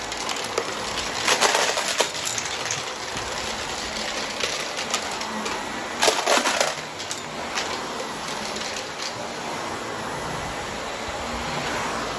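A vacuum cleaner running steadily while it sucks up coins, which clatter and rattle through it in quick clusters about a second in and again around six seconds in, with scattered single clicks between.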